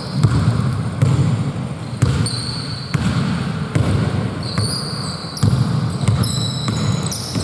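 Basketball game play on an indoor court: a ball bouncing on the floor with sharp knocks, and short high sneaker squeaks scattered throughout, over a constant low rumble of the hall.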